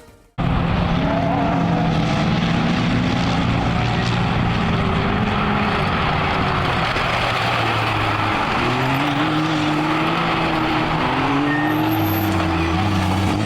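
Racing quad bikes and side-by-side (SSV) engines running hard, starting abruptly about half a second in. Several engines at different pitches rise and fall over a steady haze of noise.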